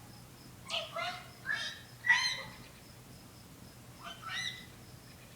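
Domestic fowl calling: three short pitched calls in quick succession about a second in, then one more past the four-second mark.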